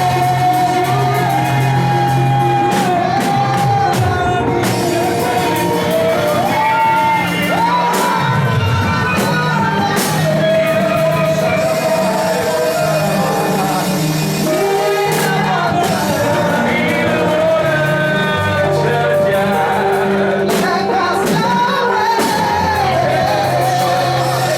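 Congregational worship music in a large hall: a band with bass and drums playing while voices sing a melody, with shouts among the singers.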